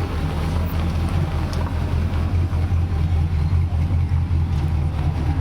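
A car engine running with a low, evenly pulsing exhaust note.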